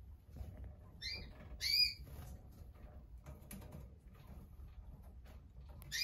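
Canaries giving two short chirped call notes, about a second in and again just after, over faint scattered ticks.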